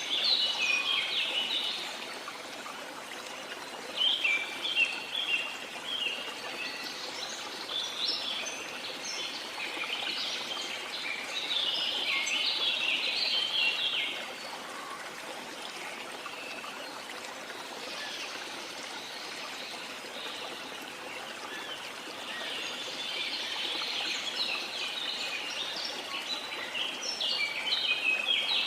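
Steady rushing of falling water with songbirds chirping over it in several bouts of quick, high notes.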